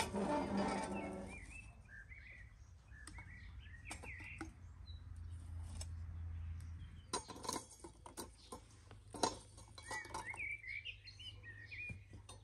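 Small birds chirping repeatedly in short, bending calls. A brief louder rushing sound opens it, and a few sharp clicks and knocks come about seven to ten seconds in.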